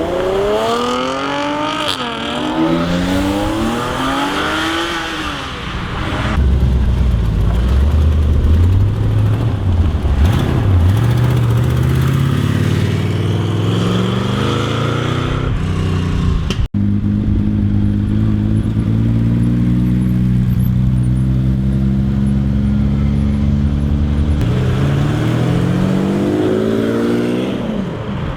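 Sports car engines revving, the pitch rising and falling in the first few seconds, then running loud and steady. A brief dropout comes about two-thirds of the way through, and the revs climb again near the end.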